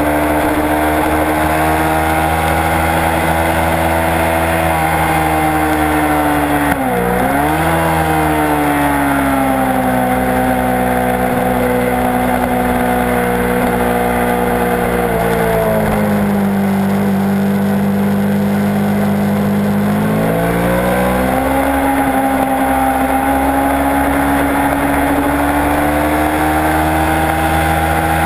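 Kawasaki Ninja 650 parallel-twin engine running hard at track speed. Its pitch mostly holds steady, dips sharply and recovers about seven seconds in, then drops lower for about four seconds past the middle before rising again.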